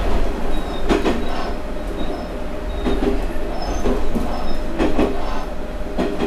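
Cabin noise of a diesel railcar under way: a steady low running drone, with the wheels clacking over rail joints several times at uneven intervals.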